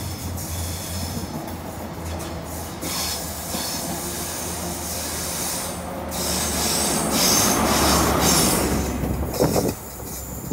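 A passenger train departing along a curved platform: a low engine hum under rising wheel squeal and rail noise. It is loudest as the last coach goes by, and the level drops sharply just before the end.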